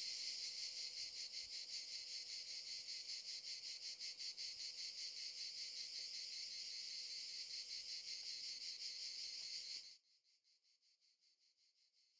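Chorus of insects chirring, high-pitched with a fast, even pulsing; about ten seconds in it drops abruptly to a faint trace.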